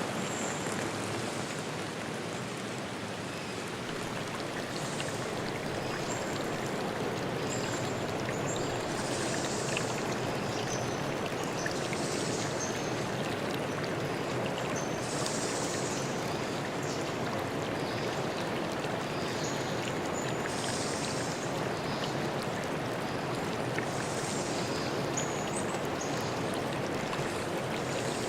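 Forest stream flowing steadily, with birds chirping in short, high whistled notes every second or two.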